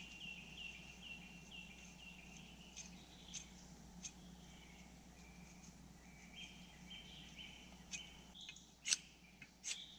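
A songbird repeating a short high note about twice a second, then running on with further high notes. Near the end come three or four sharp scrapes of an axe blade struck down a ferrocerium rod to throw sparks into tinder.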